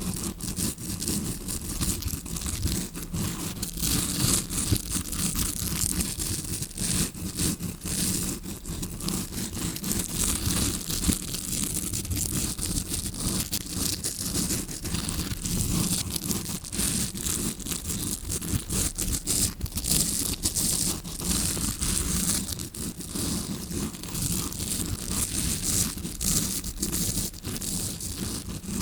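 Tawashi scrubbing brush scratched and rubbed close on the microphone, a continuous dense bristly scratching, a fake ear-cleaning sound meant to be heard as if from the eardrum side.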